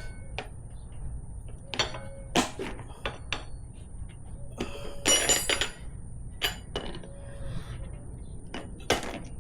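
Metal tire irons clinking and scraping against a motorcycle wheel rim while a tight tire bead is levered on: scattered sharp metallic clinks, with a short burst of ringing strikes about five seconds in.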